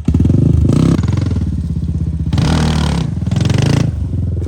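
Off-road vehicle engine revving hard in two bursts, at the start and again around three seconds in, settling to a lower steady run near the end.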